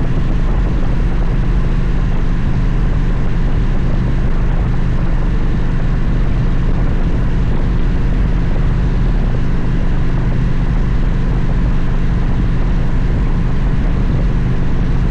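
Victory motorcycle's V-twin engine running at a steady cruising speed, a constant low drone under an even rushing noise, with no shifting or revving.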